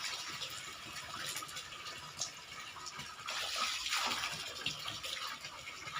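Water running and splashing steadily, a little louder for about a second near the middle.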